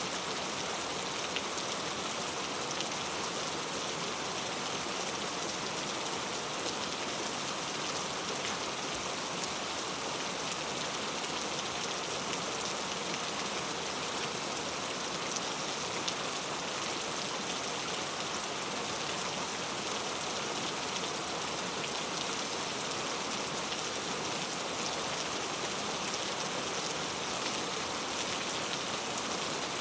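Steady rain falling: an even hiss with faint patter of drops, unchanging throughout.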